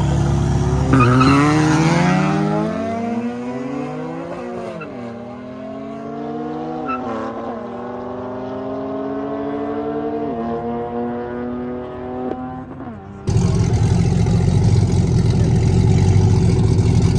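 A car launching hard and accelerating away, its engine pitch climbing and dropping at each of about four upshifts as it gets fainter. About thirteen seconds in, the sound cuts abruptly to a loud steady noise.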